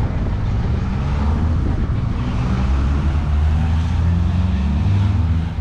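A motor vehicle's engine running close by: a steady low rumble whose pitch shifts a little, over general street noise.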